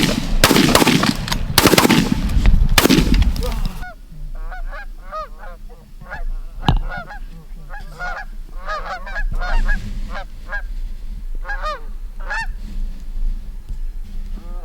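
Geese honking: many short, repeated honks, thickest from about four to twelve seconds in. Loud rushing bursts fill the first few seconds, and a single sharp crack comes near the middle.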